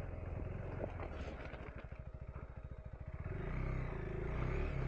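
KTM 390 Enduro R's single-cylinder engine running at low revs, easing off to an even rapid pulsing around the middle, then picking up again about three seconds in as the throttle opens.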